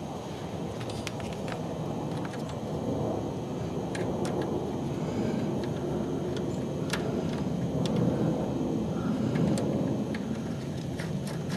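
A steady low rumble with scattered sharp metallic clicks, the sounds of hand tools working on the tie rod nuts, with a quick run of clicks near the end.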